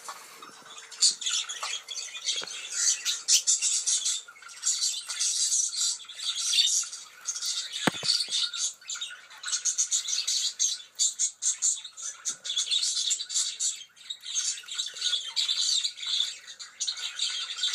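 Budgerigars chattering and warbling continuously, a rapid scratchy stream of chirps and squawks, with one sharp click about eight seconds in.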